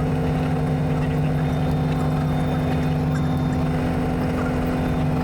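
Robinson R44 Raven I helicopter running steadily: a constant engine and rotor drone with several fixed steady tones that neither rise nor fall.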